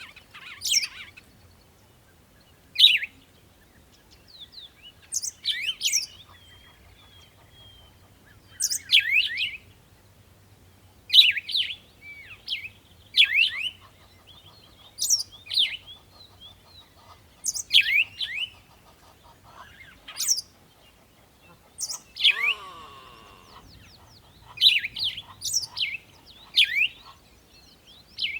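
Songbird chirping: short, sharp, high chirps that sweep downward, in little clusters every second or two. About two-thirds of the way through, a lower falling call sounds once.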